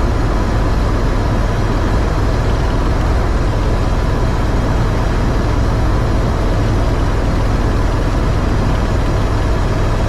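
Eurocopter EC130 helicopter in cruise flight, heard from inside the cabin: a loud, steady mix of turbine and rotor noise with a deep hum underneath.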